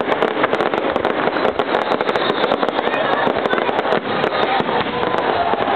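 Fireworks display: a dense, unbroken crackle of many rapid pops and small bursts, with no single big bang standing out.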